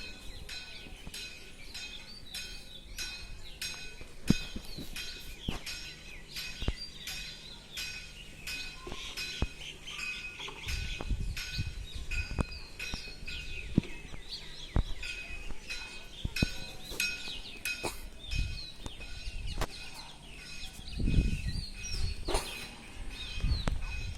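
Many birds chirping and calling, with short quick calls throughout and a few low rumbles in the second half.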